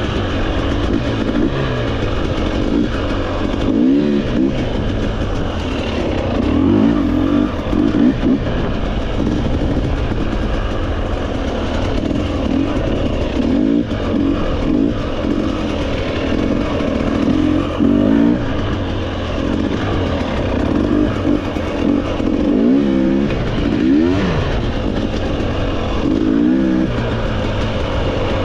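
Trail motorcycle engine running under constantly changing throttle, its pitch rising and falling every second or two as the rider revs and eases off, over a steady rushing noise.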